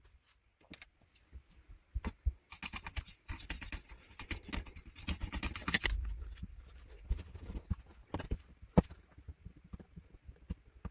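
Scattered clicks and knocks of hand work on a cordless drill's parts, with a dense run of rapid clicking and rattling from about two and a half seconds in to about six seconds.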